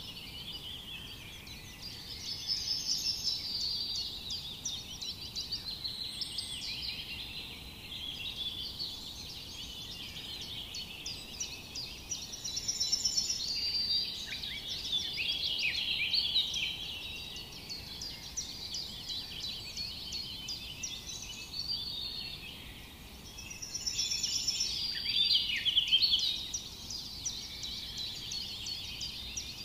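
A chorus of many small birds chirping and singing, a dense tangle of quick high calls and trills, with louder spells of song a few times.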